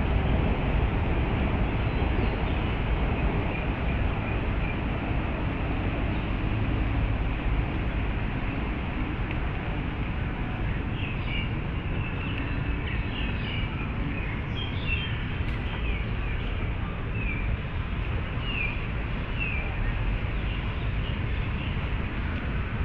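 Steady low rumble of city traffic, with a bird calling over it in a run of short, repeated high chirps partway through.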